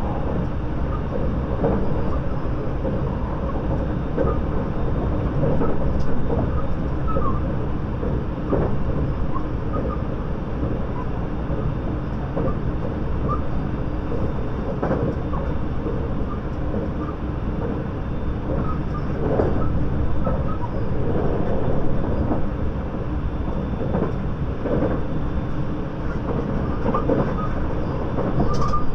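Interior running noise of a 681 series limited express electric train, heard inside a MoHa 681 motor car: a steady low rumble of wheels on rail with scattered clicks and knocks.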